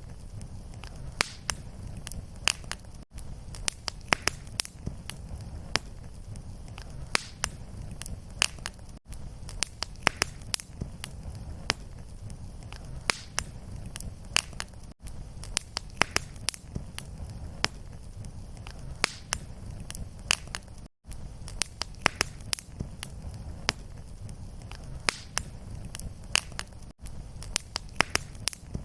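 Wood fire crackling and popping over a steady low rumble of flame. The sound cuts out briefly about every six seconds, where a short fire loop restarts.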